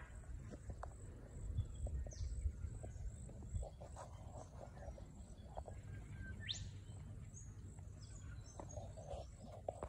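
Small birds calling in the scrub: a few thin, high whistled calls, one sweeping down in pitch about two seconds in and one sweeping up past the middle, with faint high chips between them.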